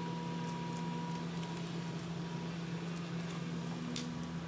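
Diesel engine of a forestry harvester running steadily at a constant speed, a low, even hum.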